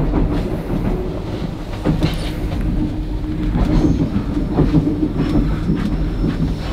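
Steady rumble and rattle of a sleeper train running on the rails, heard inside the carriage, with faint rustles of bed sheets being smoothed onto a bunk.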